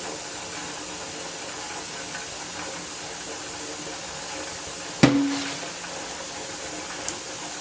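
A single sharp knock about five seconds in, with a short ringing tone after it, as a hard container is set down on the kitchen bench, over a steady background hiss. A small click near the end.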